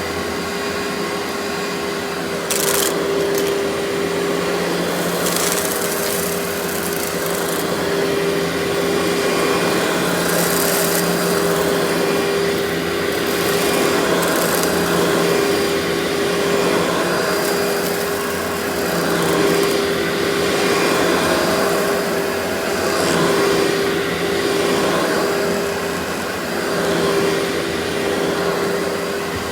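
Vacuum cleaner running steadily with a constant motor hum, and irregular rasping surges as the nozzle is worked over a surface.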